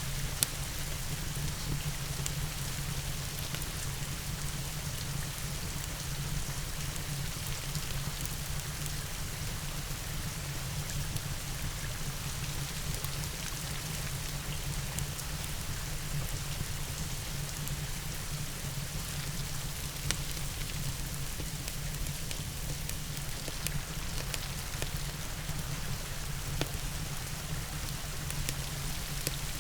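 Steady rain falling, mixed with a wood fire burning in a fireplace, whose crackles stand out as a few sharp pops, one just after the start, one about two-thirds of the way in and one near the end.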